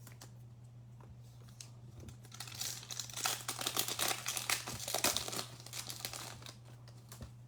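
Plastic trading-card pack wrapper crinkling and being torn open, densest between about two and six seconds in. A steady low hum runs underneath.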